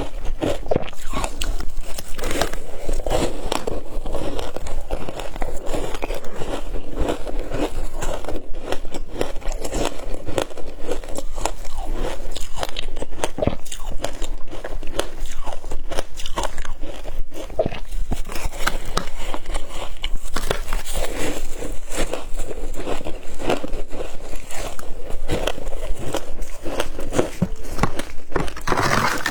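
Shaved ice being bitten and chewed, a dense run of crunches and crackles.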